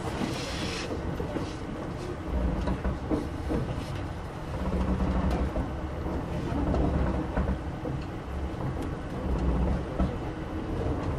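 Kintetsu 8600 series electric train heard from inside the car: a steady low rumble of motors and wheels on the rails that swells and eases several times. There is a short hiss right at the start.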